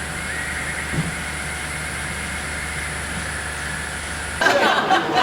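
A vehicle engine running steadily with a low drone, and a small knock about a second in. Near the end it cuts off suddenly to people chattering in a large room.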